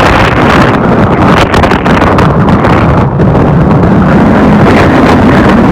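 Storm-force wind buffeting the microphone, loud and unbroken.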